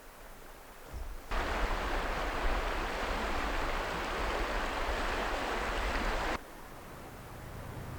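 Rushing river water, a steady hiss of whitewater, starting about a second in and cutting off abruptly after about five seconds. Near the end a low rumble begins to build.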